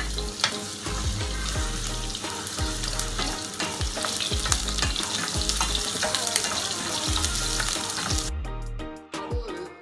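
Ginger strips sizzling in hot oil in a frying pan, with the scrape of a wooden spatula stirring them. The sizzle cuts off suddenly near the end, leaving background music.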